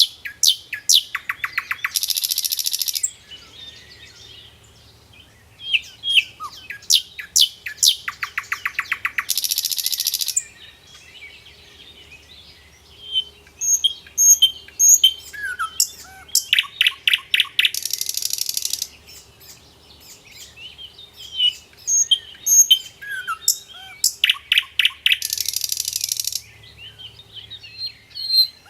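Birdsong: a phrase that repeats about every eight seconds, a rapid trill followed by a harsh buzz of about a second, with scattered short chirps and whistles between.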